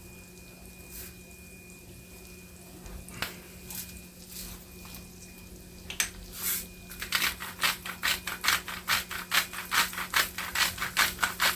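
Pepper and garlic being dispensed from spice containers over a pan: a fast, regular run of rattling clicks, about four or five a second, starting about six seconds in. A steady low hum runs underneath.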